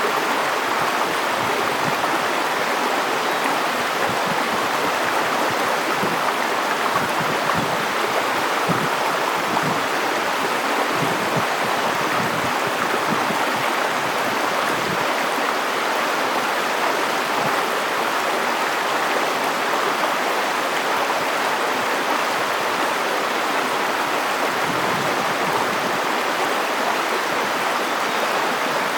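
River water flowing steadily over stones in a shallow stream.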